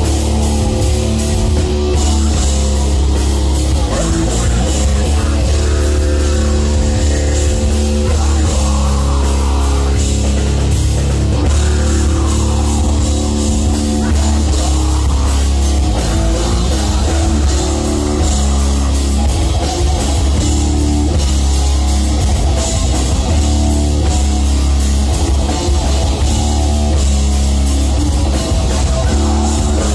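Heavy metal band playing live and loud: distorted guitars, bass and drum kit, with a very heavy low end.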